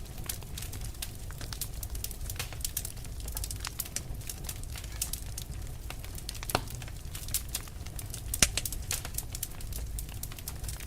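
Fire burning with dense crackling: many sharp pops and snaps over a low steady rumble. The loudest pop comes about eight and a half seconds in.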